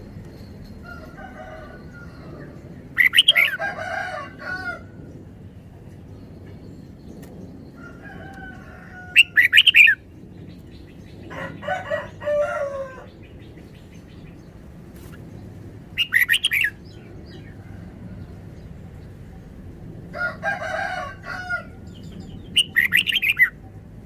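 Red-whiskered bulbul singing: about six short, loud whistled phrases, each a second or two long, coming every few seconds.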